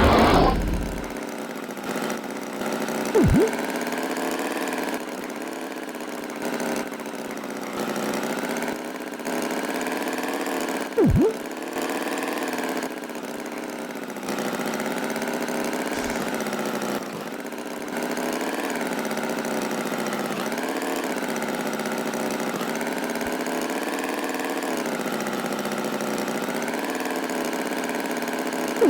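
A tractor engine sound effect running steadily, its pitch rising and falling gently as the revs waver. Two brief louder sounds stand out, about 3 and 11 seconds in.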